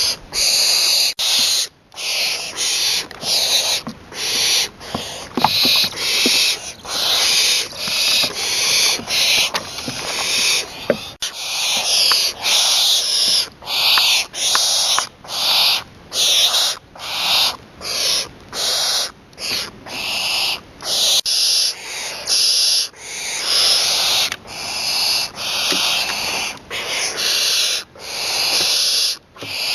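Young barn owl giving a long series of harsh hissing calls, each under a second long, about one or two a second.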